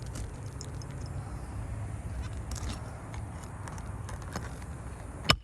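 Low steady rumble with faint scattered clicks and scraping, then near the end one sharp, loud hammer blow on a roofing snake, driving a roofing nail into the roof decking under the shingle above.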